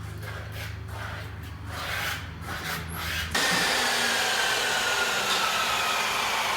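A power tool starts suddenly about halfway through and runs steadily, with a faint whine that slowly falls in pitch. Before that there is a low steady hum with some scraping and rubbing.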